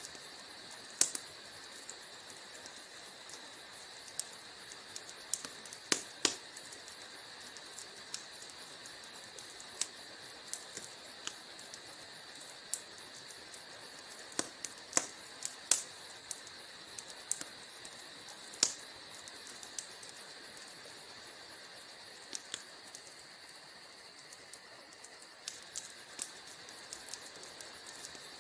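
Wood fire crackling: a steady soft hiss with scattered sharp pops and snaps, some in quick pairs, the loudest about six seconds in and around fifteen seconds in.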